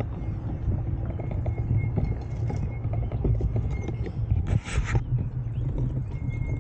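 Riding a bike on a dirt trail: a steady low rumble of wind on the microphone and tyres on the ground, with scattered small clicks and knocks from the bike over the bumps. A short hiss comes about four and a half seconds in.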